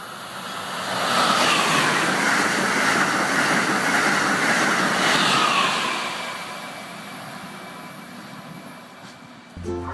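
High-speed train passing by: a rushing noise that swells over about a second, stays loud for about five seconds, then fades away.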